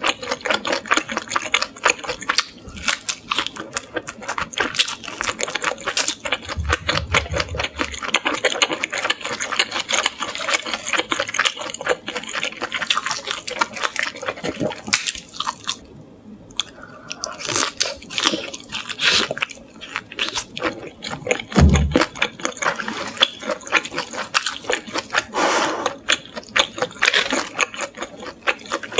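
Close-miked chewing of salt-grilled shrimp, a steady run of wet mouth clicks and smacks, with two short low thumps about seven and twenty-two seconds in.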